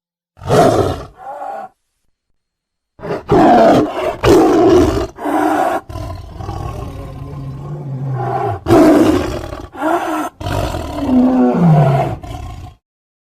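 Big-cat roar sound effects: one short roar, a pause, then a string of loud roars and snarls spliced back to back, several cut off abruptly. Two of the later roars drop in pitch as they end.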